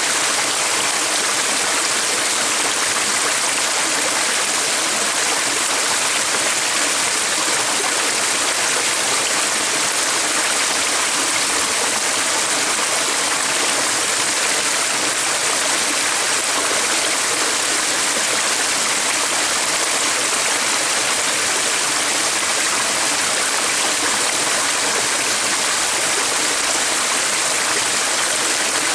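A stream running steadily, an even rush of water with no breaks.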